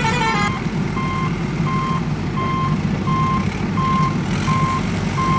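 A short electronic tune ends about half a second in, then a vehicle's reversing alarm beeps steadily, about one and a half beeps a second, over a low engine rumble.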